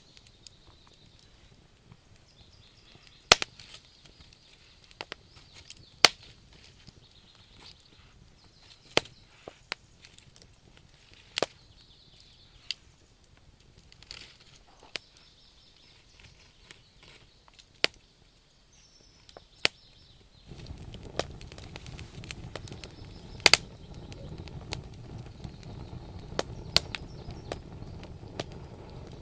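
Wood fire crackling, with sharp pops every second or two. About two-thirds of the way through, a steady low rushing comes up beneath the pops and stays.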